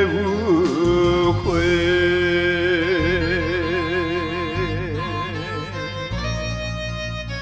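A singer holds the song's last note with a wide, even vibrato over a pop ballad backing track, the note fading out about halfway through. The backing music plays on alone.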